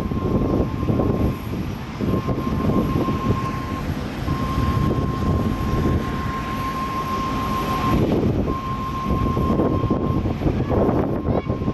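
Boeing 777-300ER jet airliner's loud, uneven rumble, with a thin steady high whine that cuts out and returns several times.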